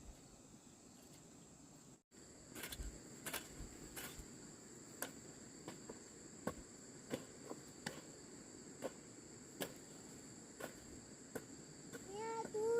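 Steady high-pitched chirring of crickets, broken by a brief cut about two seconds in. After the cut come irregular sharp taps or knocks, roughly one a second. A pitched call, like a voice, starts near the end.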